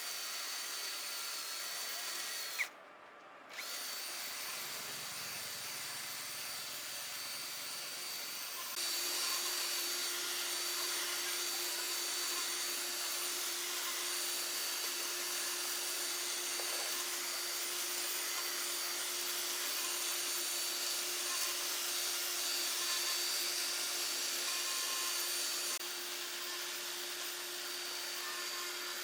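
A motorized workshop tool running steadily with a thin high whine. It cuts out briefly about three seconds in and runs louder from about nine seconds in until near the end.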